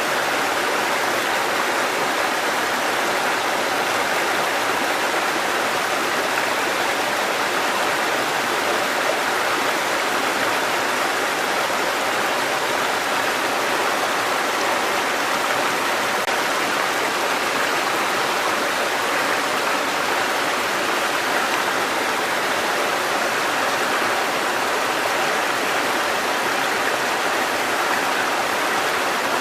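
Water cascading over rocks in a mountain stream, a steady unbroken rush.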